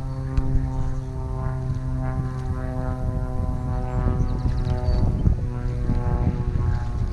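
Steady droning engine with an even pitch, fading out about five seconds in, over a rough low rumble.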